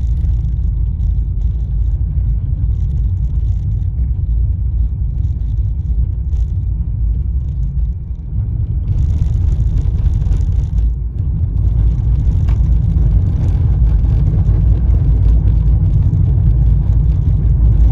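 Car driving along a rain-wet street: a steady low rumble of road and engine noise, with a short dip about eight seconds in and a louder hiss just after.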